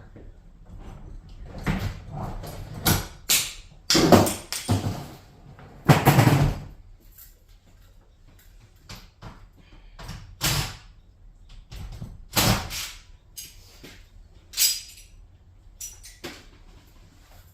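Irregular knocks, bangs and clatter from a garage door being dismantled, with the loudest bangs about four and six seconds in and scattered smaller knocks between.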